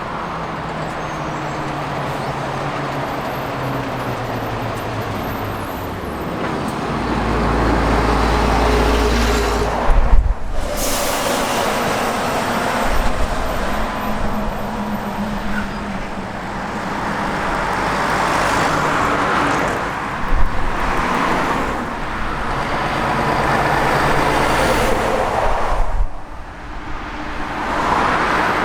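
Heavy diesel trucks driving past one after another, engine running under tyre and road noise, rising and fading with each pass. The sound breaks off abruptly about ten seconds in and again near the end.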